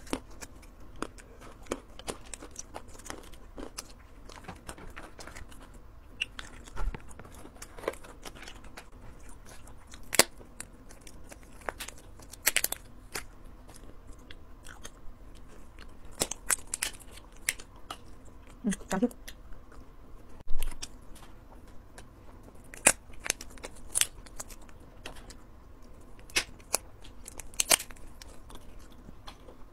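Close-up eating sounds: chewing and biting, with sharp crackles and wet mouth clicks at irregular intervals. There is one short pitched mouth sound a little past halfway.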